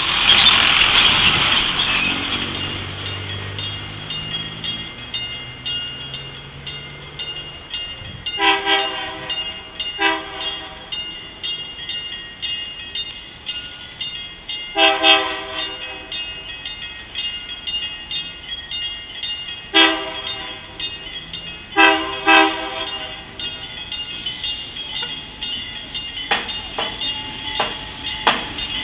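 Freight train of FLS wagons behind a GE C30-7 diesel locomotive rolling past with wheel clatter. There is a loud rush in the first two seconds and a steady high tone underneath. Six short horn blasts come between about 8 and 23 seconds in, some in quick pairs.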